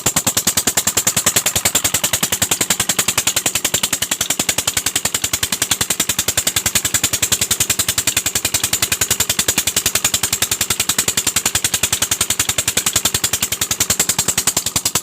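Diesel engine of a tubewell irrigation pump running at a steady speed, with a fast, even beat of exhaust knocks.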